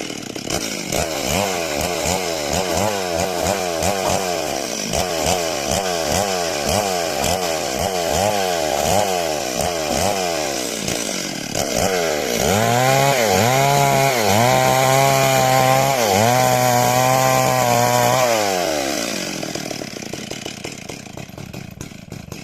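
Two-stroke chainsaw cutting wood, its engine pitch rising and falling in quick regular waves about twice a second, then held at high revs with a few brief dips. It then winds down and dies away near the end.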